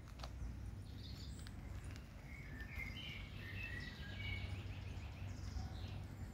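A bird chirps in short, high notes for a couple of seconds mid-way, over a steady low rumble of background noise.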